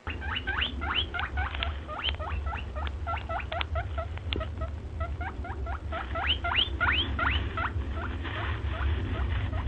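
A small animal squeaking, a quick run of short rising squeaks, about three to four a second, over a steady low rumble.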